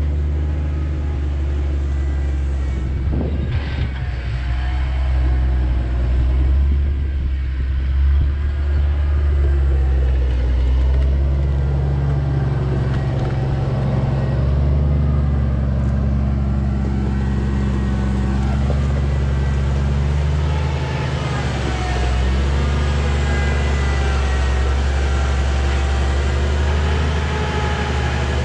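Engine running steadily with a low, even drone, its revs rising and falling only slightly.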